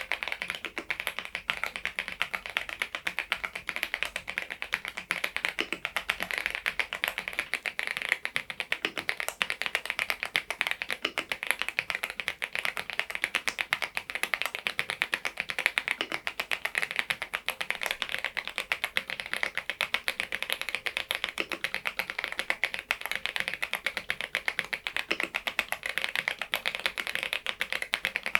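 Continuous typing on an AULA F99MAX mechanical keyboard fitted with Leobog Reaper switches: a steady, fast run of key clicks.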